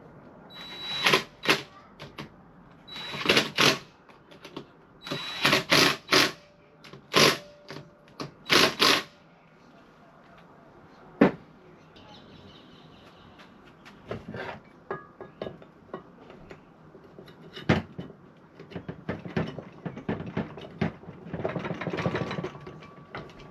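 Hand tools and metal parts working on a scooter engine during reassembly: a quick run of sharp clicking, ratchet-like bursts over the first several seconds, then scattered lighter clinks with one sharp knock, and more clatter near the end.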